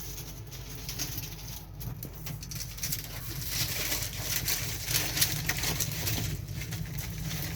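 Sliced onions and garlic sizzling and crackling in hot soybean oil in a pan, with dense spitting growing livelier about halfway through.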